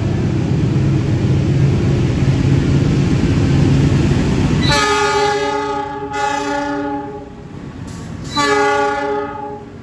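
A train rumbling heavily past, then its horn sounding twice, a blast of about two seconds just before the middle and a shorter one near the end.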